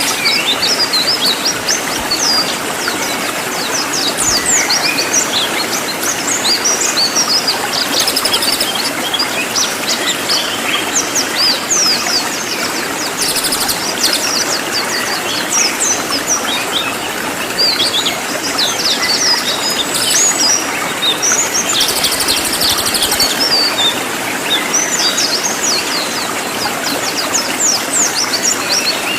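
Cililin songbird singing a dense, unbroken stream of rapid high chirps and trills over a steady hiss.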